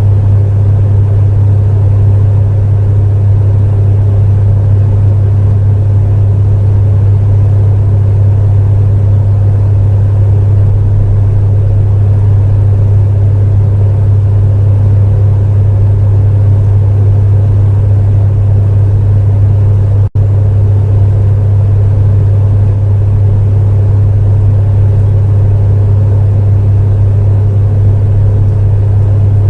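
Space heater running steadily: a constant strong low hum with a rushing, fan-like noise over it. About twenty seconds in, the sound drops out for an instant and comes straight back.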